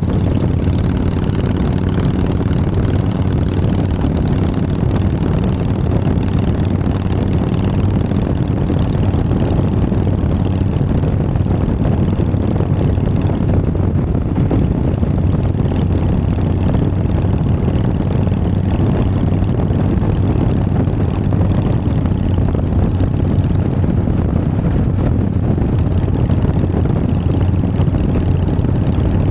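Harley-Davidson Sportster's air-cooled V-twin engine running with a steady, unchanging note.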